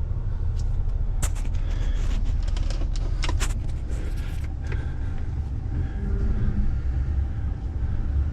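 Truck engine running at low speed, heard from inside the cab as a steady low rumble, while the truck is slowly maneuvered. A few sharp clicks and knocks come about a second in and again about three seconds in.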